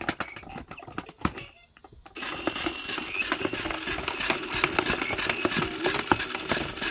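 Baby's battery-operated frog pond toy: scattered taps and clicks, then about two seconds in a steady mechanical whirring rattle with a low hum starts up.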